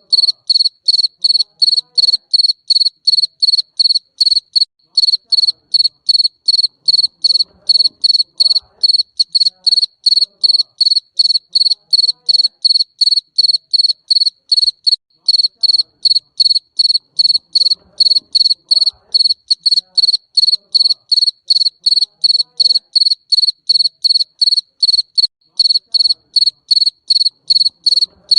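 A garden cricket chirping in a steady run of short, evenly spaced, high-pitched chirps, with a couple of brief pauses.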